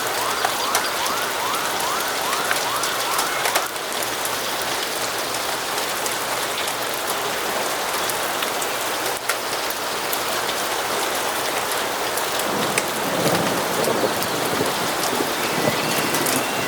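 Steady heavy rain falling on a surface. A bird's quick run of about ten chirps sounds in the first few seconds and another starts near the end. A low rumble of distant thunder rises and fades between them.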